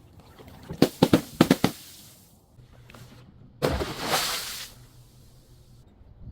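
Brittle objects being broken and crushed: a quick run of about six sharp cracks about a second in, then a longer crunching burst a little before four seconds in.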